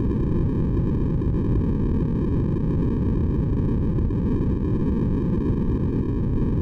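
Steady synthesized sleep noise: an even, deep hiss with most of its weight in the low end, with no changes or breaks.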